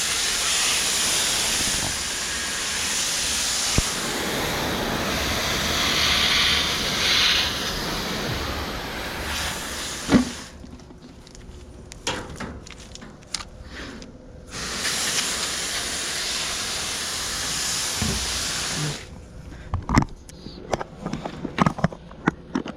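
Garden hose nozzle on its cone setting spraying water onto the condenser coils of a Bryant outdoor air conditioner unit, a steady hiss. The spray stops about ten seconds in, starts again some four seconds later and stops again a few seconds before the end, leaving small clicks and taps in the gaps.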